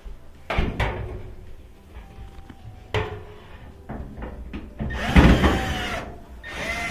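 Clicks and knocks of a screwdriver working a Phillips screw out of a dryer's sheet-metal panel, then, about five seconds in, a louder rasping stretch with a squeaky, wavering metallic edge as the screw turns out.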